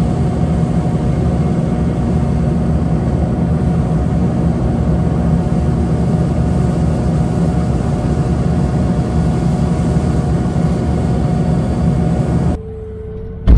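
Heavy engine running steadily. Near the end it cuts off abruptly to a quieter background with a faint steady tone, and a single sharp click follows.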